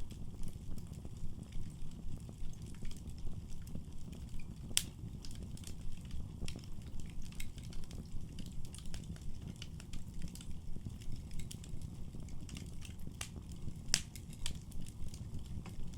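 Wood fire burning in a fireplace: a steady low rumble of flames with frequent sharp crackles and pops, the loudest pops about five seconds in and near the end.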